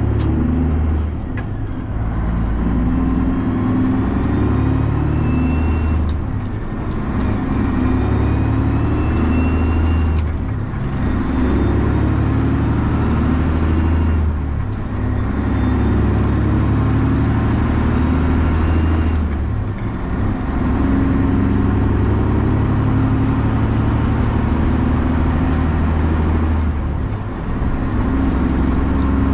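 Straight-piped Detroit Diesel 12.7-litre Series 60 inline-six in a Freightliner semi truck, pulling through the gears. The exhaust note builds, then drops briefly at each gear change, about every four to five seconds.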